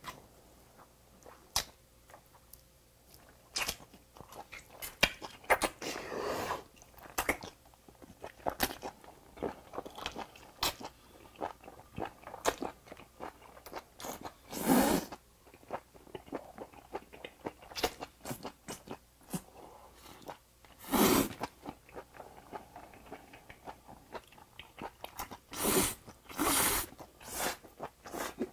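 Close-miked chewing and biting of grilled octopus pulled off a wooden chopstick: many small wet clicks and smacks, with a few louder, longer mouth sounds spread through.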